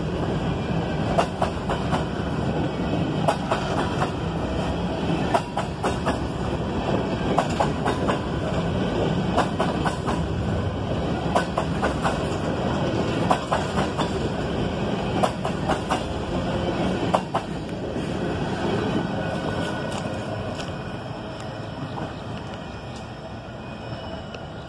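Cars of a CSX coal train rolling past: a steady rumble with many sharp clacks of wheels over rail joints. The sound fades steadily from about two-thirds of the way through as the train moves away.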